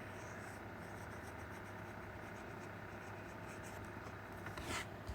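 Faint scratching of hand-drawn strokes on a drawing surface, with a slightly louder, longer stroke near the end.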